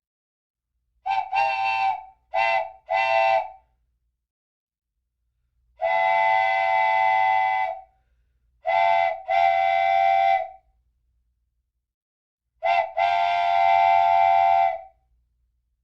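Train whistle sound effect: repeated steady, pitched blasts, some short and some held for about two seconds, with dead silence between them.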